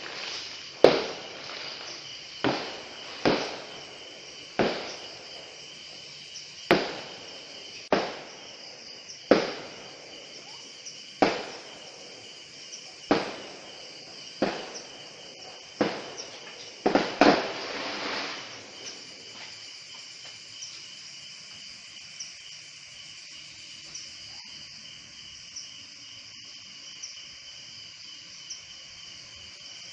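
A series of about a dozen sharp bangs or knocks, roughly one every second or two, each dying away quickly, ending with a close double bang about 17 seconds in and then stopping. Crickets or other insects chirr steadily throughout.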